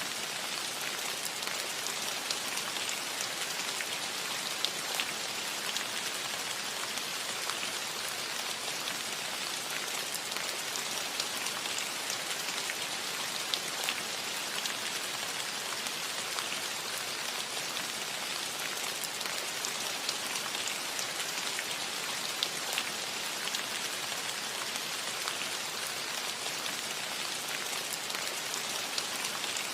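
Steady rain falling on a roof: an even hiss of rain with individual drops ticking through it.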